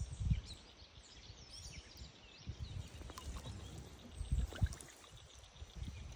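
Small birds chirping in short, quick phrases, over a faint outdoor hiss, with irregular low thumps; the loudest thumps come at the very start and around four and a half seconds in.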